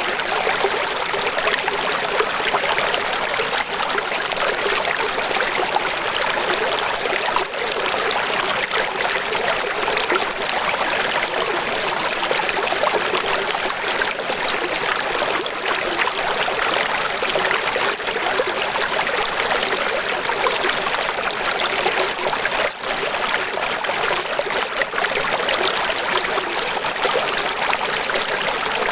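Running water, a steady, unbroken rush with little bass, like a stream or small waterfall.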